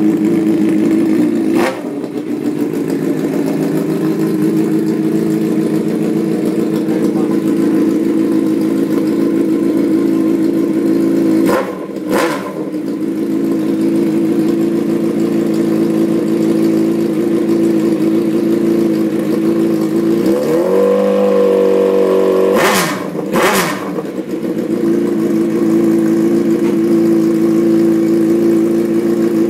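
Honda CBR1000RR's inline four-cylinder engine running loud and raw with no muffler fitted, mostly holding a steady idle. There are brief throttle blips about two seconds in and again near the middle, and a short rev held for a couple of seconds about two-thirds of the way through.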